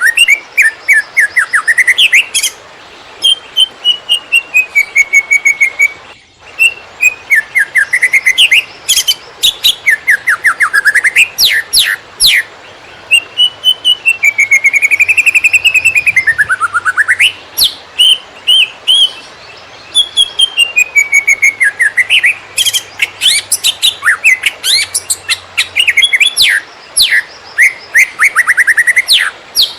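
A cucak ijo (leafbird) singing the rapid, tumbling 'konslet' song: fast chirp trills, falling sweeps and whistled glides, pouring out almost without pause.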